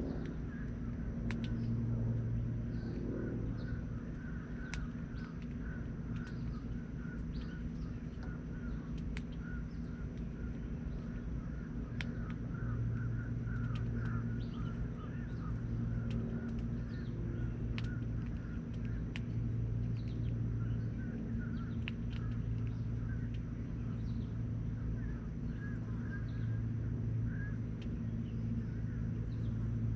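Birds chirping and calling continually over a steady low hum, with scattered sharp clicks.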